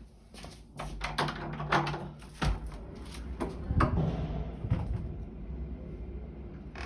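A run of irregular knocks, clicks and bangs, like doors or cupboards being handled, over a low steady hum.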